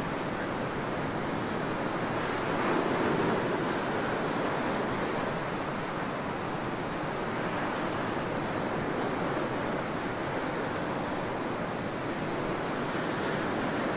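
Ocean waves breaking and washing up on a beach: a continuous surf wash that swells a little about three seconds in and again near the end.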